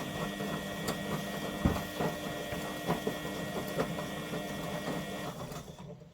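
Front-loading washing machine's motor driving the drum by its belt during a wash cycle: a steady motor whine with scattered knocks. Near the end the motor winds down and stops.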